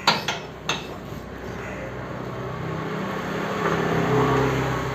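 Shop ramp being raised: a few sharp metal clinks, then the ramp's motor running with a steady hum that grows louder and rises slightly in pitch. The ramp is being worked up and down to break the bead of a tubeless tyre.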